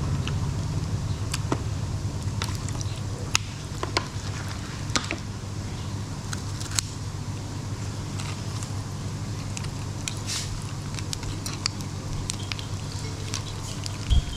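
Eating sounds: scattered light clicks of utensils against a dish and soft chewing, over a steady low hum.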